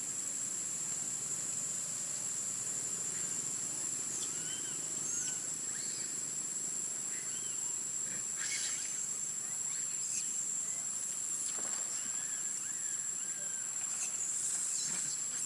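A steady high-pitched drone of insects, with short squeaky calls rising and falling in pitch scattered over it.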